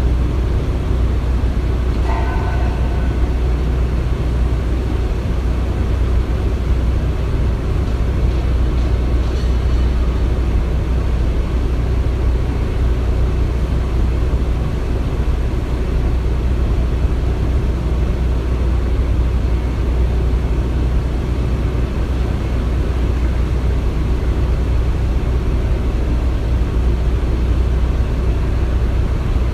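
Construction-site ambience: a steady low rumble of heavy machinery, with a brief high squeal about two seconds in and a few faint metallic ticks near the ten-second mark.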